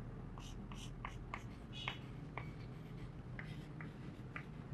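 Someone writing by hand: a run of faint ticks and short scratches scattered through the pause, over a low room hum.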